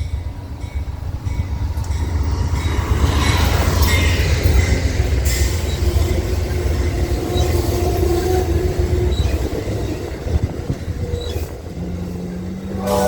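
Train passing close by: a heavy rumble of wheels on rail that builds to its loudest about four seconds in, with steel wheels squealing against the rails.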